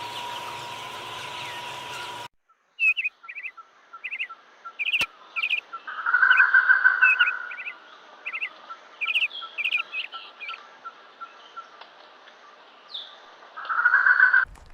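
A bird calling: a series of short, quick chirps, with a longer buzzy call in the middle and again near the end. Before it, a steady hum with a held tone cuts off sharply about two seconds in.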